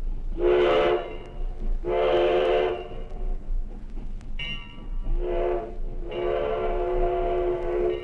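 Steam locomotive chime whistle sounding four blasts: short, long, short, then a long held blast near the end. A fainter, higher-pitched whistle sounds briefly in the gap before the third blast.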